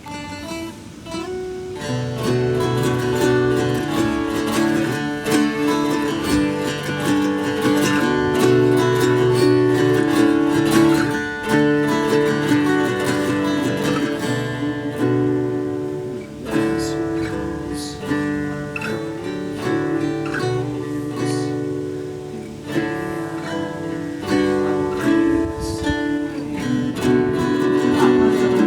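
Acoustic guitar playing an instrumental intro of picked and strummed chords, starting softly and filling out about two seconds in.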